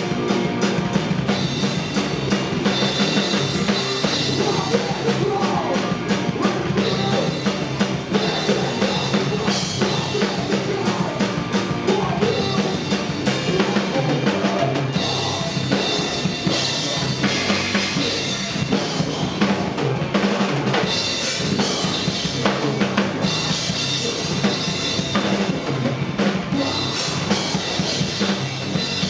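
Rock band playing live, loud and dense, with the drum kit to the fore: kick drum and snare struck in a fast, steady run.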